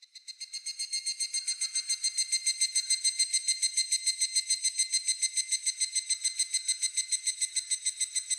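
Higurashi (evening cicada) calling: a fast run of ringing, metallic pulses that swells over the first two seconds and then holds steady.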